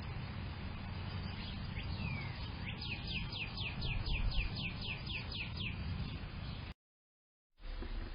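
A songbird sings a quick series of about a dozen down-slurred whistled notes, roughly four a second, lasting about three seconds. Under it is a steady low rumble, and the sound cuts out completely for under a second near the end.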